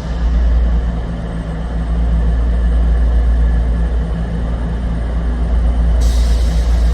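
Diesel train engine running with a steady low rumble and a steady engine note. A hiss joins near the end.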